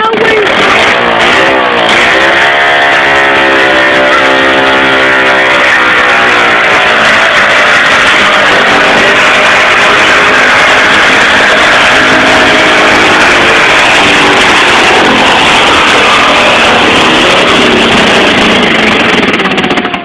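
Competition pulling tractor's engine run at full throttle through a pull, very loud and overloading the phone microphone. Its pitch wavers over the first few seconds, then holds steady, and the sound drops away sharply at the end.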